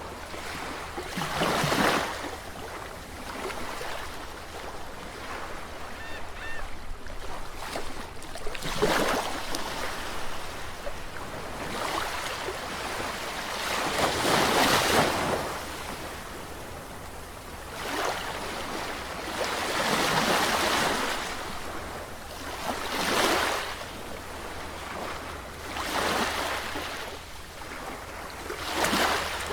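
Sea waves breaking and washing on the shore, a swell of surf rising and falling every few seconds, over a steady low rumble.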